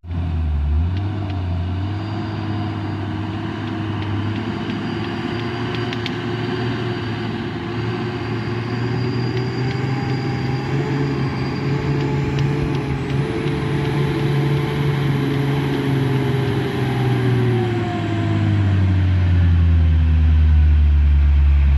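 Heavy vehicle's engine running under load on a steep climb, its pitch rising slowly and then falling away. A deeper engine drone grows louder over the last few seconds.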